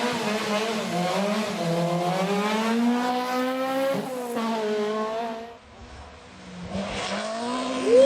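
Rally car engine at full throttle, its revs climbing steadily, then dropping at a gear change about four seconds in. The sound drops away briefly about six seconds in, then the engine comes back.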